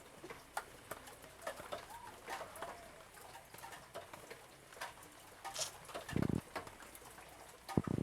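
Light rain falling, with scattered drips ticking, a bird cooing faintly, and a short low thump about six seconds in.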